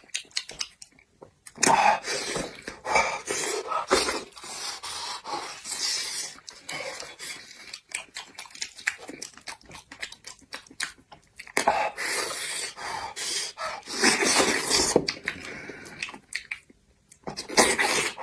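Close-miked eating of braised beef trotter: irregular wet chewing, smacking and sucking, with sharp clicks and a few louder bursts.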